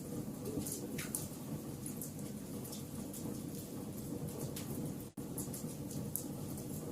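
Wood fire burning in a fireplace: a steady low rumble of flames with scattered sharp crackles and pops, the loudest about a second in. The sound drops out for an instant about five seconds in.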